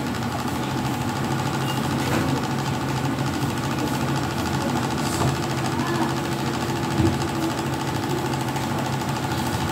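Small electric motor running steadily with a constant hum.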